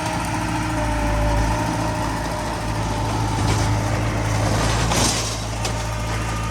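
Diesel engines of heavy earthmoving machinery, a dump truck and a small crawler bulldozer, running steadily with a low hum. A short rushing noise comes about five seconds in.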